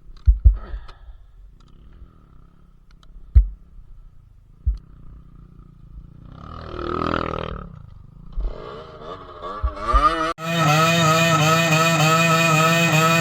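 Dirt bike engines: quiet low knocks at first, then a motorcycle engine swelling up and revving over several seconds, and after a sudden cut about ten seconds in, a loud motorcycle engine running steadily with its pitch wavering up and down.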